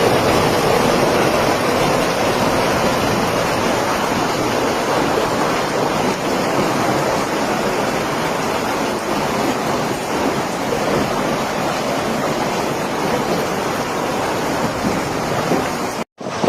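Heavy hail coming down in a storm: a dense, steady roar of countless hailstones striking.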